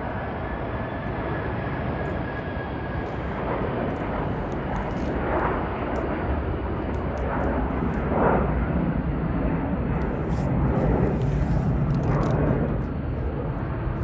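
Air Canada Express CRJ-900 regional jet's twin rear-mounted General Electric CF34 turbofans running at takeoff thrust. Steady jet noise with a faint high whine that fades over the first few seconds, and a low rumble that grows stronger later on.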